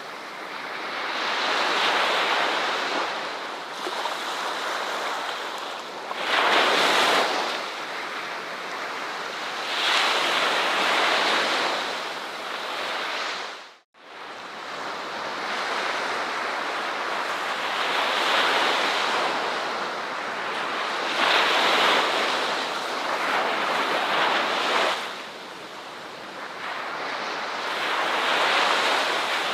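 Ocean waves breaking and washing up a shore, surging and falling back every few seconds, with a brief dropout about halfway through.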